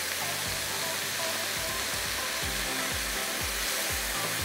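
Spiced beef mince frying with a steady sizzle in a pot as it is stirred with a wooden spoon. Quiet background music runs underneath, its low beat coming in about a second and a half in at roughly two beats a second.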